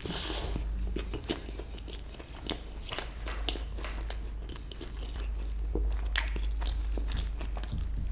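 Close-miked chewing of a mouthful of chicken burger, with irregular sharp crunches and mouth clicks.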